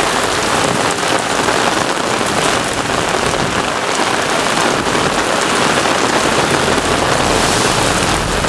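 Heavy rain pouring down in a severe thunderstorm, a dense steady hiss. A low rumble comes in near the end.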